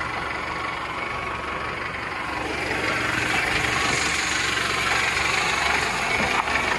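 Toyota Camry engine idling steadily, with a broad hiss over it that grows a little louder a few seconds in.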